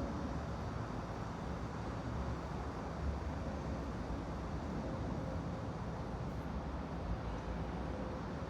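Steady white-noise ambience: an even, low-pitched hiss with a faint hum and no distinct events.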